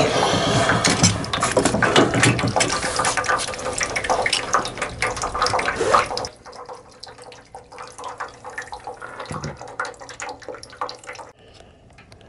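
Water rushing out of a household water-pipe fitting for about six seconds, then cutting back sharply, followed by faint knocks and handling sounds. The fitting has just given way and will need replacing.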